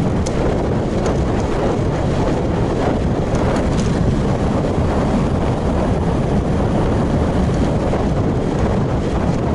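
Steady wind rush buffeting an action camera's microphone on a moving road bike, with the noise heaviest in the low end and a few faint high ticks.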